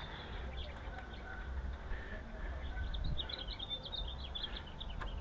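A bird chirping, a quick run of high twittering notes about three seconds in, over a steady low hum.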